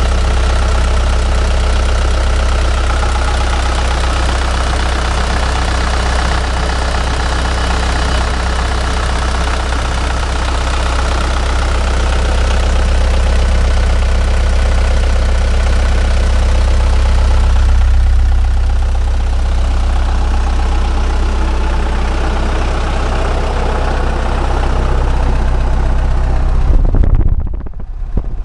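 Mitsubishi Canter's 4D34-T four-cylinder turbo-diesel engine idling steadily, running normally. Near the end the sound dips suddenly for a moment.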